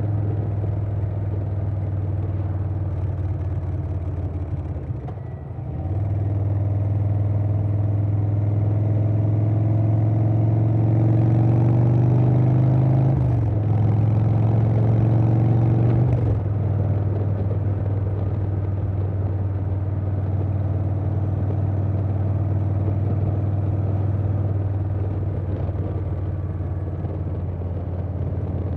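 2020 Harley-Davidson Softail Standard's Milwaukee-Eight V-twin running through a Vance & Hines Big Radius 2-into-2 exhaust on the road. The level drops briefly about five seconds in, then the engine pulls with rising pitch. There is a short break near the middle, like a gear change, and it rises again before the rider rolls off a few seconds later and it settles into a steady cruise.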